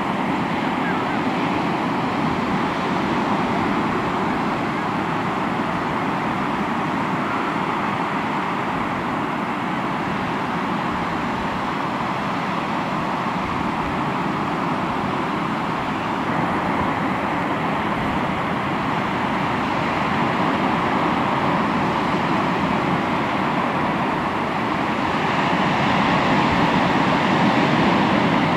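Sea waves surging and washing ashore in a continuous surf, swelling louder about three-quarters of the way through.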